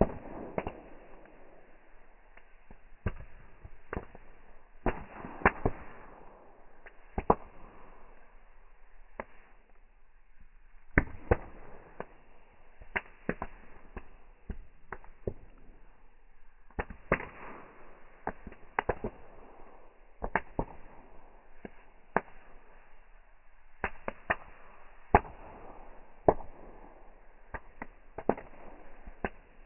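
Fireworks going off: irregular sharp bangs and pops, sometimes two or three close together, over a faint hiss.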